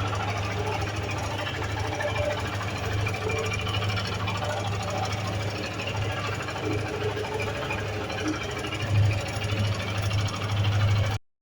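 Suzuki Gixxer single-cylinder motorcycle engine idling steadily with a rapid mechanical ticking over its low hum: the engine noise the bike is being checked for. The sound cuts off abruptly near the end.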